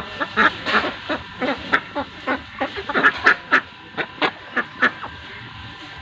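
Indian desi domestic ducks quacking in a quick, irregular run of short calls, which thins out near the end.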